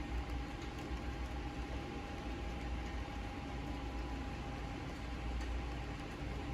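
Steady hiss of rain falling against a window, with a low steady hum and rumble underneath.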